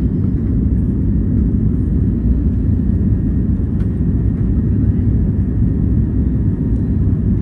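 Steady low rumble of engine and airflow noise heard inside the cabin of an Airbus A321neo airliner, even and unchanging throughout.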